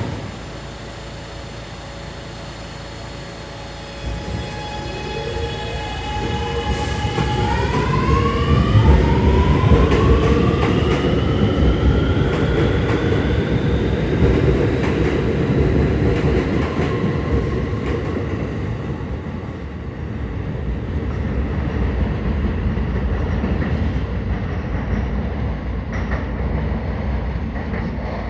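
R211A subway train pulling away and accelerating: a brief knock right at the start, then its propulsion whine rising in pitch in several tones together from about four seconds in, giving way to steady running and rail noise.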